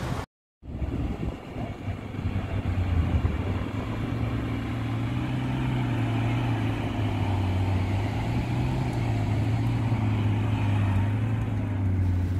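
Lamborghini Aventador SVJ's V12 engine idling with a steady low burble that swells and wavers slightly, as at low-speed manoeuvring. A brief cut to silence comes just after the start.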